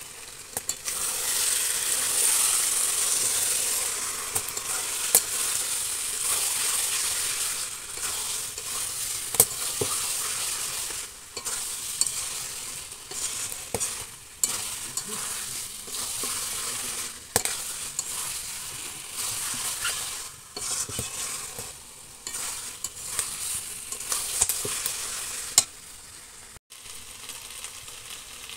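Spiced mutton and potato pieces sizzling as they fry in a metal karahi. A steel spatula stirs and scrapes through them, making frequent sharp clicks against the pan.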